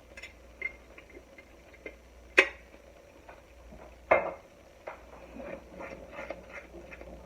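Cooking utensils clinking and knocking on cookware: light taps throughout, with two sharp clinks about two and a half and four seconds in.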